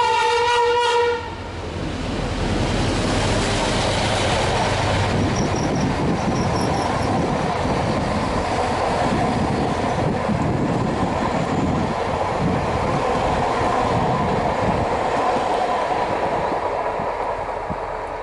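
NSB Di 4 diesel-electric locomotive sounding its horn, one steady note that cuts off about a second in. It then passes hauling passenger coaches: engine and wheels rumbling, with the clickety-clack of wheels on rail joints, easing off slightly near the end.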